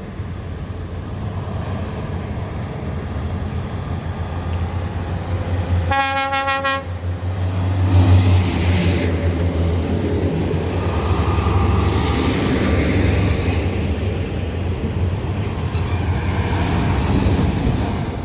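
Heavy truck's diesel engine rumbling, with one short horn blast about six seconds in. The engine grows louder about eight seconds in and stays loud as the truck passes.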